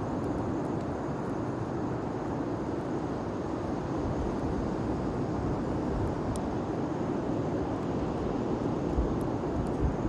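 Large bonfire burning: a steady low rush of flame with a few faint crackles.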